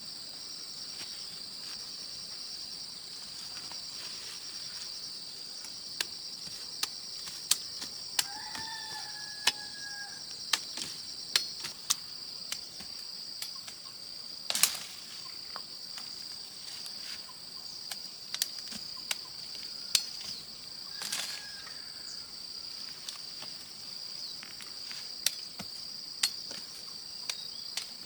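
Steady high chirring of insects. From about six seconds in there are irregular sharp clicks and knocks, and a brief pitched call around the nine-second mark.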